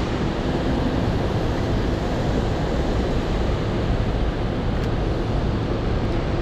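Heavy rain pouring down, a steady rushing hiss with a low rumble beneath it; a faint low hum fades out about two seconds in.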